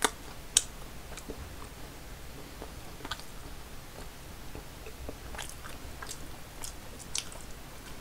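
Close-miked chewing of food: soft wet mouth clicks and smacks, with two sharper clicks in the first second and another run of clicks a little past the middle.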